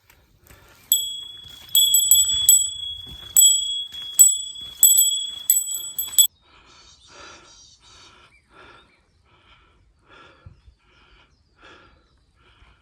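A small metal bell rings, struck again and again for about five seconds before it stops suddenly. After it, birds call in a run of short, evenly repeated notes.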